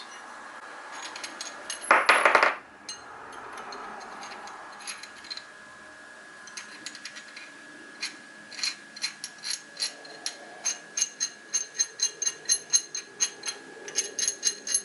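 Metal parts of an antique monkey wrench being fitted together by hand: a short scrape about two seconds in, then a run of light metallic clicks, about three a second, through the second half.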